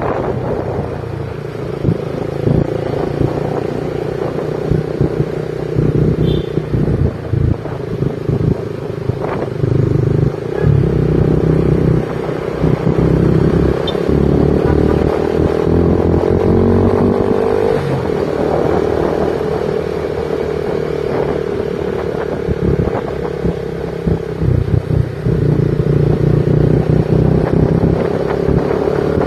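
Motorcycle engine running while riding, with road rumble; its pitch rises and falls as the speed changes, most noticeably about halfway through.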